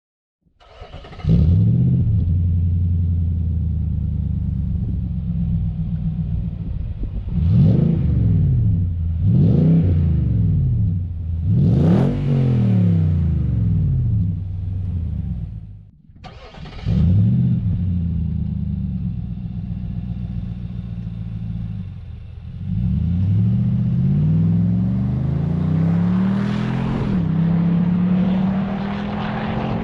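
Nissan Patrol Y62's 5.6-litre V8 running through a twin 3-inch into single 3-inch stainless straight-through exhaust: it starts about a second in, idles with a deep note and is blipped three times. After a brief cut-out it starts again, idles, then is revved up in rising pulls and held at higher revs near the end.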